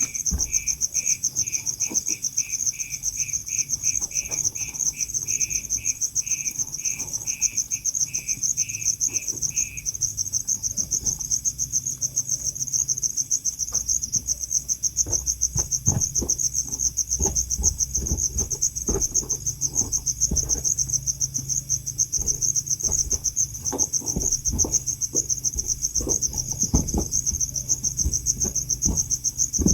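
Crickets trilling, a steady, high, fast-pulsing trill throughout, with a second insect chirping in a lower, slower rhythm of about two chirps a second that stops about ten seconds in. Scattered low knocks and rustles come in the second half.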